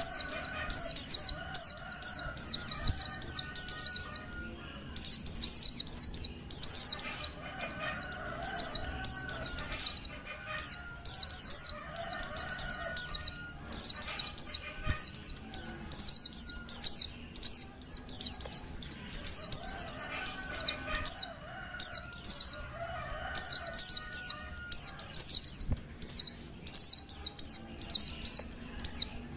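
Female white-eye (pleci) calling over and over: high, thin chirps in quick clusters of falling notes, about one cluster a second with a few short breaks.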